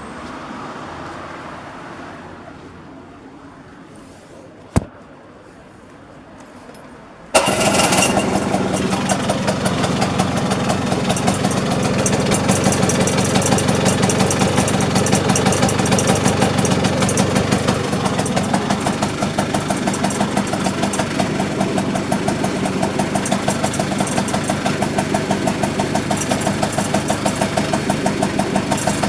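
A click about five seconds in, then an engine starts abruptly a little after seven seconds and runs steadily with a fine, even pulsing. It is recorded as an abnormal noise.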